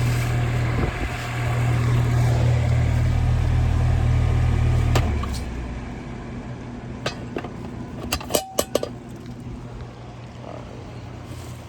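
An HVAC unit running with a steady low hum that shuts off about five seconds in. Several sharp clicks and metal knocks follow.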